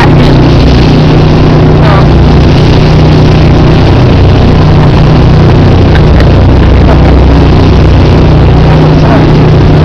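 Boat engine running steadily: a loud, constant low hum with an even rushing noise over it.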